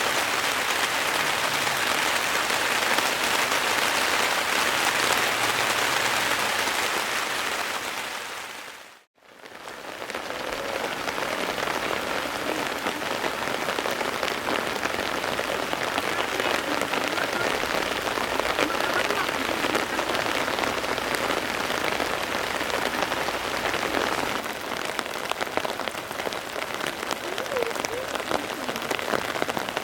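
Heavy rain falling steadily as a dense, even hiss. It fades briefly to silence about nine seconds in, then starts again.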